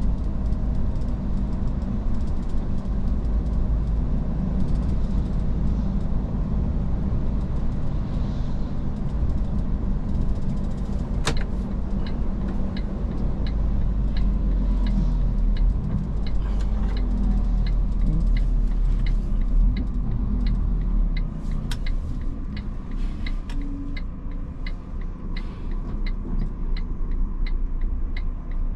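Steady low engine and road rumble inside the cab of an Iveco S-Way truck under way. About 11 seconds in there is a single click, and after that a steady, even ticking follows, typical of the turn-signal relay.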